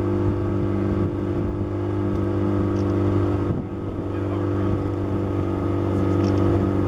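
Boat motor running steadily at cruising speed, a constant engine drone with a brief dip about three and a half seconds in.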